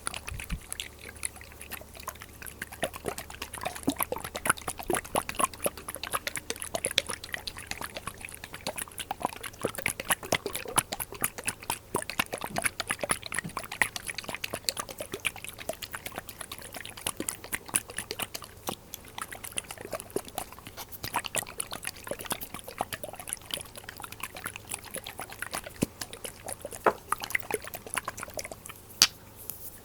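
Glass dropper bottles handled close to the microphone: a dense, irregular run of small glass clicks and taps, with liquid dripping and trickling from the dropper.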